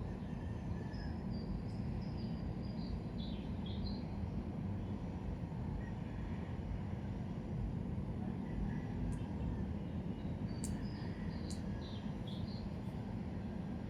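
Steady low background rumble of outdoor ambience, with a bird's short chirping phrase heard twice, once early and once about ten seconds in.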